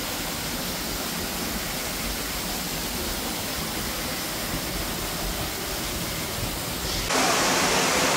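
Steady rush of falling water from a waterfall in a rocky gorge. About seven seconds in it abruptly becomes louder and brighter.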